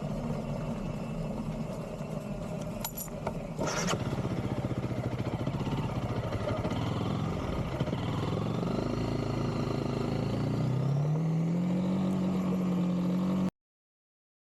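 Honda CRF300L single-cylinder engine running under load on a dirt track. There are two short knocks a few seconds in, and the engine note rises as the bike revs up about three-quarters of the way through. The sound then cuts off abruptly into silence.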